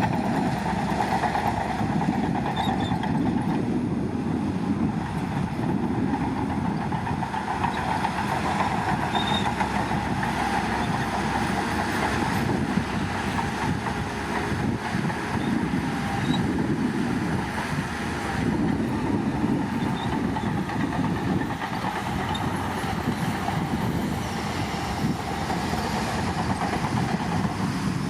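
Crawler bulldozer's diesel engine running steadily under load, with the clatter of its steel tracks as it moves.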